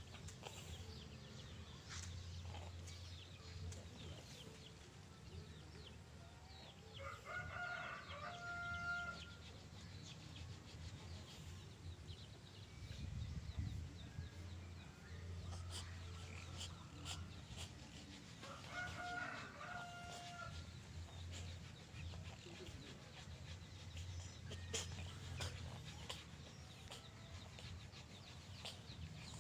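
Two long animal calls, each about two seconds long and ending on a held note, about eleven seconds apart, over a steady low hum and faint scattered clicks.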